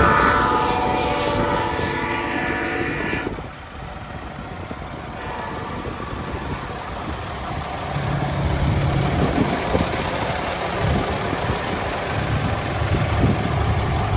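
A horn held for about three seconds, then cut off, over a running diesel truck engine, likely the Cat 3126 of a 2000 Freightliner FL80. The engine runs on steadily after the horn stops, its low note rising in level from about eight seconds in.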